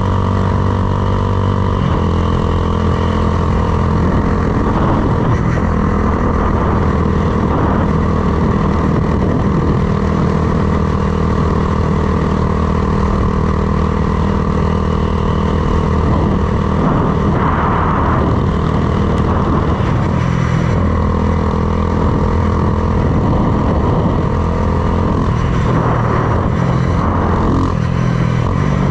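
Honda Grom's swapped-in CBR300R single-cylinder engine running under way at steady cruising revs, its pitch stepping to a new level about two seconds in and the revs changing again near the end.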